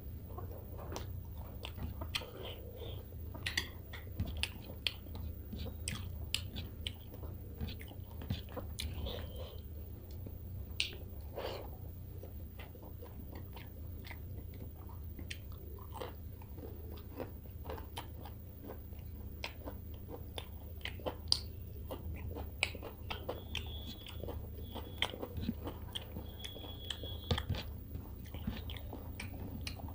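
Close-miked eating sounds: wet chewing and lip smacking of fish curry and rice eaten by hand, with scattered small crunches. A steady low hum runs underneath.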